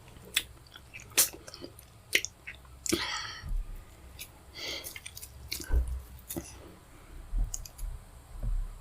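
Close-miked eating of fufu with pepper soup: wet chewing and sharp lip-smacking clicks, with a few short breathy bursts from the mouth.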